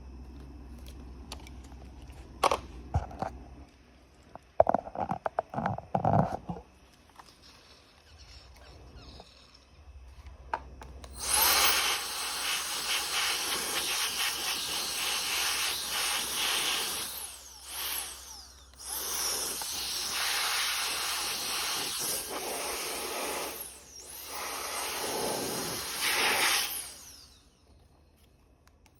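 Turbo fan blowing hard, a loud rushing hiss that switches on about a third of the way in and cuts out briefly several times, with a faint rising whine as it spins up. Before it, a few light knocks and clatters.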